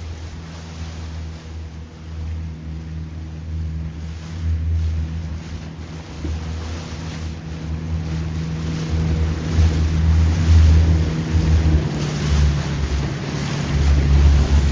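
A motorboat engine running steadily under heavy wind noise on the microphone and the rush of water, growing louder over the second half.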